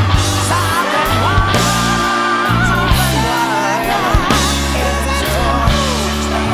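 Studio rock recording: bass and drums under a lead melody that bends and wavers in pitch.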